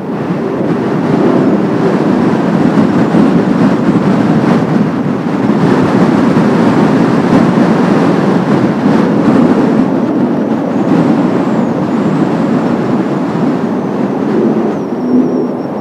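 Formation of Kawasaki T-4 jet trainers flying over: a loud, steady rushing jet roar that swells over the first couple of seconds and holds, with a thin high whine near the end.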